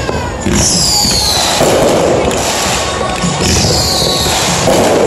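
Fireworks going off. Two whistling shells each give a high whistle about a second long that falls in pitch, followed by a louder blast, with scattered crackling between.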